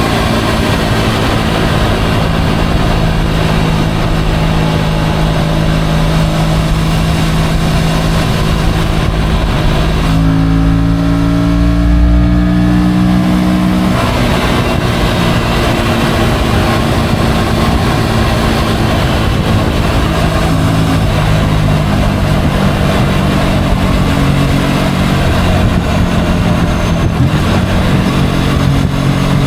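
Motorcycle engine running under way, with wind and road rush. The engine note steps up and down with speed. About a third of the way in the rush thins for a few seconds while the engine holds a steady note.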